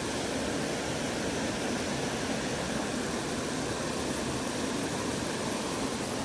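Steady, even rush of flowing creek water, unchanging in level.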